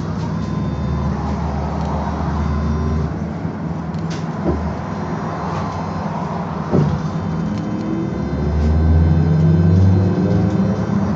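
BKM-221 trolleybus heard from inside while riding: a steady low running hum and rumble, two short knocks partway through, and a rising whine from the electric drive near the end as the sound swells.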